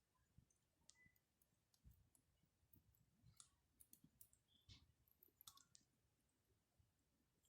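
Faint crackling of a wood campfire: scattered small pops and clicks at irregular intervals.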